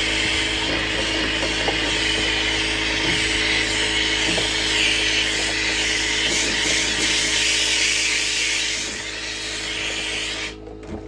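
Power drill spinning a dryer-vent cleaning brush, running steadily and stopping abruptly near the end, over background music.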